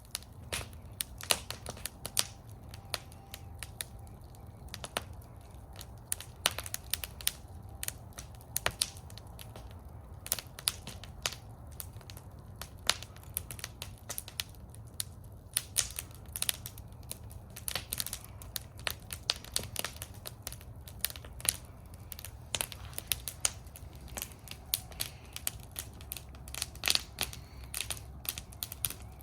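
Wood fire in a fire bowl crackling, with irregular sharp pops and snaps over a steady low rumble.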